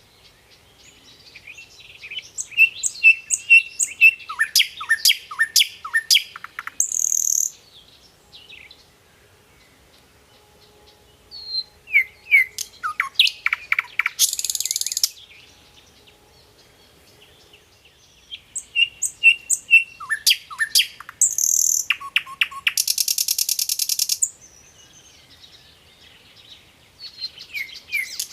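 A songbird singing in repeated bouts a few seconds long with pauses of about four seconds between them; each bout is a quick run of down-slurred whistled notes mixed with short buzzy trills.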